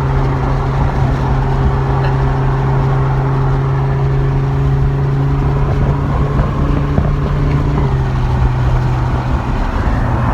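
Lamborghini Huracán Evo's V10 engine droning steadily at cruise, heard from inside the cabin over road and tyre rumble. The engine note drops slightly about eight seconds in.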